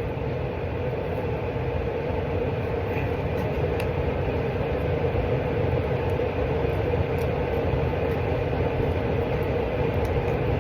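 Steady low rumble with a constant hum, a continuous machine-like background noise, with a few faint ticks.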